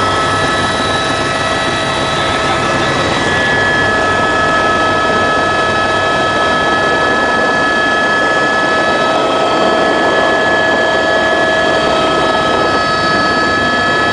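Helicopter running steadily: a dense, loud engine and rotor noise with a steady turbine whine made of several high tones held on top.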